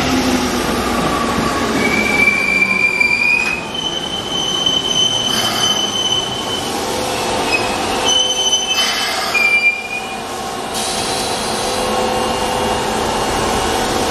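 Keikyu 800 series electric train running along the platform, its wheels rolling on the rails and squealing in high, thin tones that come and go several times.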